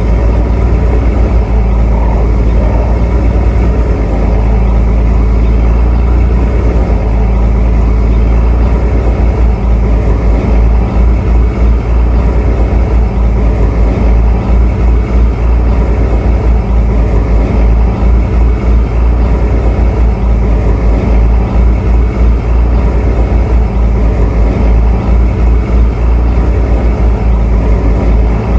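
Tugboat diesel engine running steadily with a heavy low rumble.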